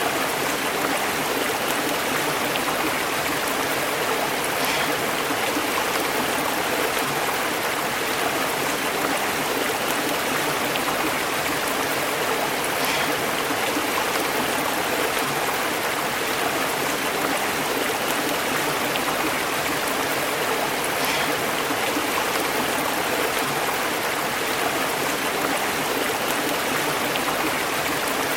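A shallow stream burbling and bubbling over rocks, a steady rush of running water with small splashes now and then.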